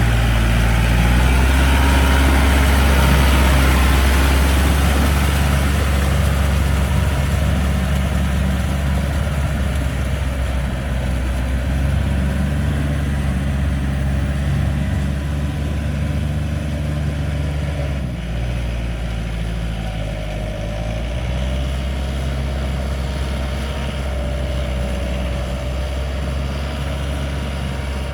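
Yanmar 72 hp tractor's diesel engine running steadily while it drives a 2.2 m rotavator. About two-thirds of the way through, its note drops a little lower.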